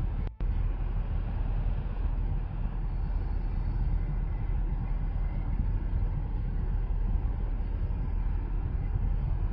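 Steady low rumble inside a parked car, heard from the cabin with the engine idling. The sound cuts out for a split second about a third of a second in.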